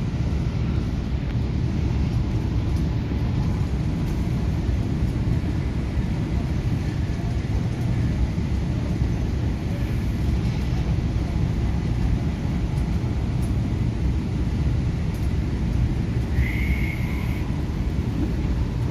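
Steady running noise inside an MTR K-Train electric multiple unit at speed: a continuous low rumble of wheels on rail. Near the end a brief high-pitched tone sounds for about a second.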